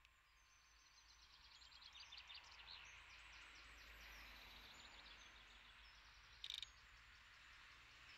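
Faint birdsong: a bird singing rapid runs of high notes during the first three seconds, over a faint steady hiss. About six and a half seconds in comes a brief sharp crackle of three quick clicks, the loudest sound here.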